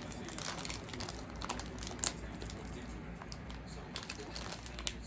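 Snack packaging crinkling and clicking irregularly as hands work at opening it, with one sharper click about two seconds in.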